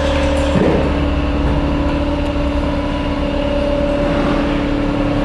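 Steady mechanical drone: a pulsing low rumble under two held humming tones, with no change throughout.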